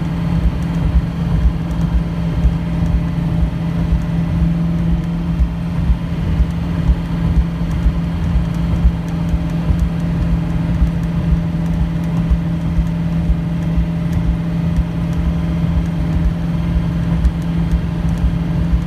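1970 Ford Boss 302 Mustang's V8 engine running at a steady speed under way, a constant drone with low rumble and road noise, heard from inside the car.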